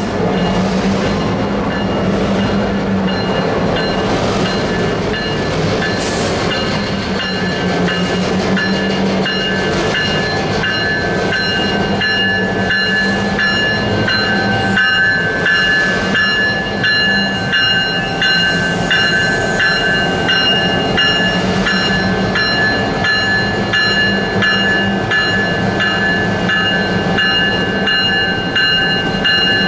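A train running on the rails, a steady loud rumble of wheels and cars with repeated faint clicks. High steady tones hold throughout.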